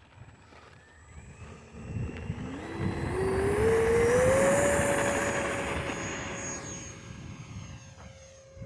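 E-flite Viper 70mm electric ducted-fan jet spooling up for takeoff: a whine that climbs in pitch over about two seconds and then holds steady, over a rush of fan noise that peaks about four seconds in and then fades as the jet moves away.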